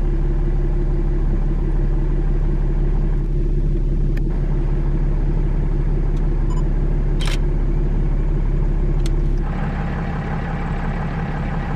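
Vehicle engine idling with a steady low drone. Near the end the drone shifts in tone and gets a little quieter. A few faint clicks come through, the sharpest about seven seconds in.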